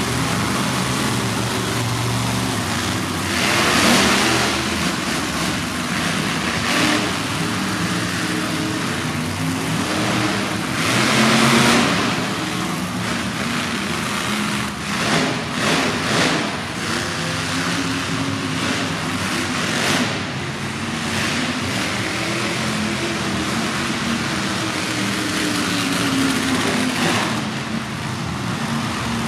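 Monster truck supercharged V8 engines running and revving, with loud surges of throttle about four and eleven seconds in and a few shorter blips a little later.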